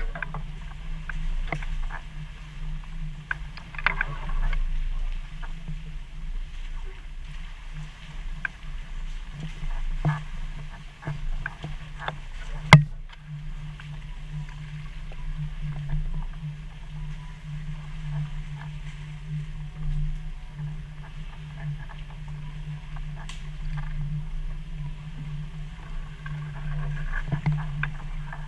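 Jeep engine running with a steady low drone while driving off-road, with scattered knocks and clunks; one sharp knock about twelve seconds in is the loudest sound.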